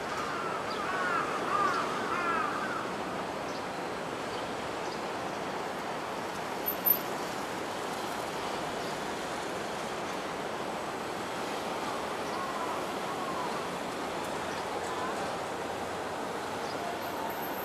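Steady background noise of a railway station platform with no train passing yet. Short chirps sound during the first few seconds, and there is a single sharp click about seven seconds in.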